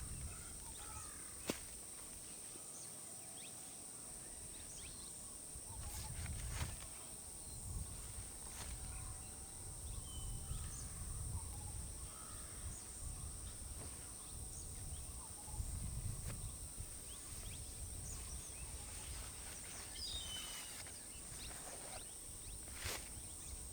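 Early-morning countryside ambience: a steady high insect drone with scattered bird chirps and calls. Low rumbling swells and fades, and a few sharp clicks stand out.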